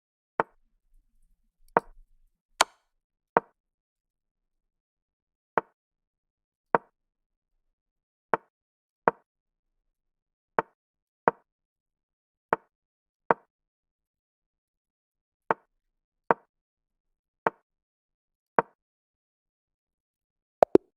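Piece-move sound effects of an online chess game: about eighteen short clicks at uneven spacing, roughly one a second and often in pairs, as moves and replies follow each other in a fast game. Two clicks come almost together near the end.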